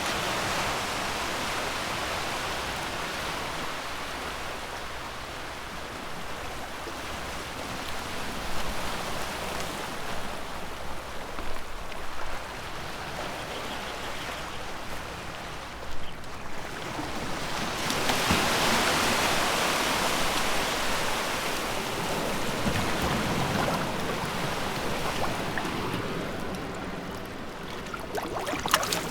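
Sea waves washing onto the shore, the surf swelling louder about two-thirds of the way in. A few short clicks and splashes come near the end.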